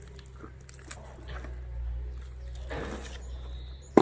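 Faint rustling and handling noise over a low wind rumble, ending in one sharp knock.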